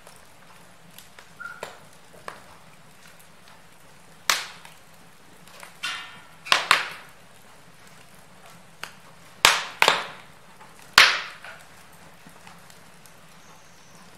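Wood fire in a fireplace crackling: a faint steady hiss with scattered sharp pops, several of them loud and the loudest about eleven seconds in.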